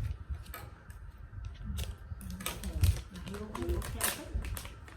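Irregular clicks and light knocks of craft materials being handled on a tabletop, with two louder knocks at the start and about three seconds in, and soft murmured voices in the middle.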